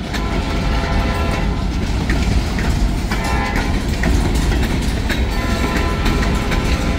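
Freight cars of a long train rolling past: a steady low rumble with clicks from the wheels. A steady high tone of several notes sounds over it for the first second or so and again about three seconds in.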